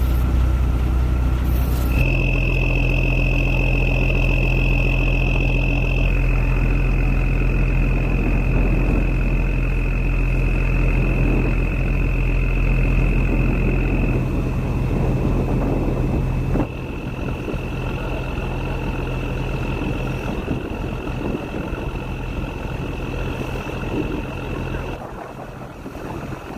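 Boat engine running steadily: a low, even drone with a thin high whine over it. The sound shifts abruptly twice, and drops in level about two-thirds of the way through.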